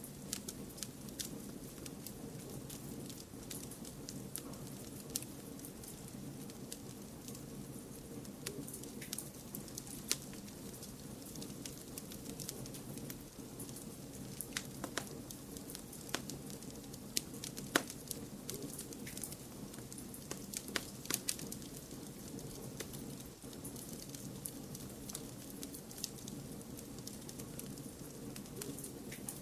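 Fireplace wood fire crackling: irregular sharp pops and snaps over a steady low rushing background, with one louder pop about two-thirds of the way through.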